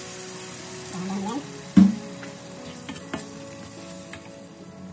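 Blended chilli-garlic spice paste frying in hot oil in a wok, a steady sizzle as it is stirred with a spatula. A sharp knock about two seconds in, with a few lighter clicks after.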